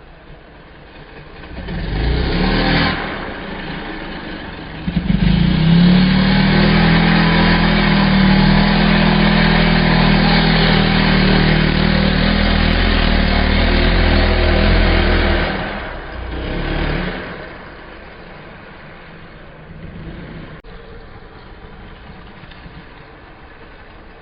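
Motocross bike engine revving: a short burst about two seconds in, then a loud, steady run at high revs for about ten seconds, then another brief burst before it fades.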